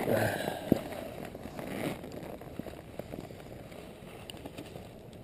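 A horse grazing at rest: crackly rustling and crunching as grass is torn and chewed, busiest in the first two seconds and then fainter.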